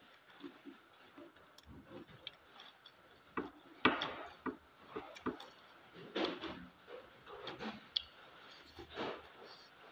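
Close-up mouth sounds of someone eating fish curry and pasta by hand: chewing and lip-smacking in a string of short, irregular clicks and smacks, the loudest about four seconds in.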